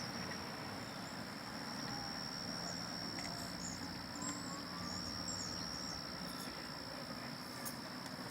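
A steady, high-pitched insect trill, such as a cricket's, holding one unbroken pitch over a low background rumble.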